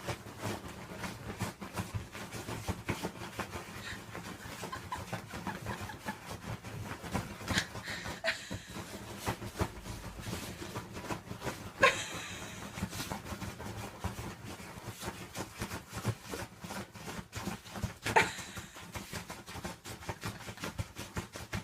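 Italian greyhound puppy panting and snuffling as it plays on a bed, amid a constant crackle of rustling and scratching, with two sharper, louder sounds partway through and near the end.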